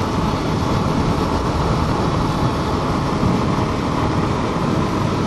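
Suzuki Inazuma GW250 parallel-twin motorcycle being ridden at a steady pace: steady engine and wind noise with a rumbling low end.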